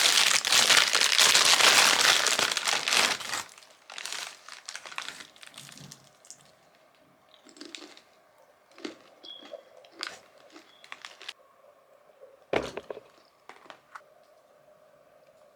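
Takeout food bag crinkling loudly as it is opened for about three seconds, then quieter scattered clicks and crackles of takeout containers being handled, with one sharper knock late on.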